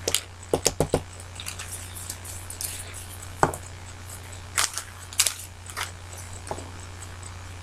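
Scattered sharp clicks and taps of small craft tools and bottles handled on a tabletop, with a quick run of four or five in the first second and single taps after, over a steady low hum.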